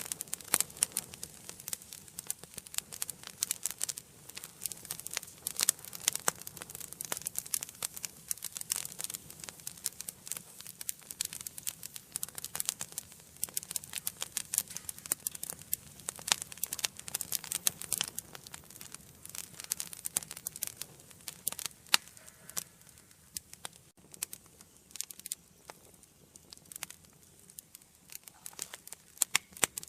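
Wood fire burning in a fireplace, crackling and popping densely, with sharp pops coming thick and fast for most of the time and thinning out somewhat in the last third.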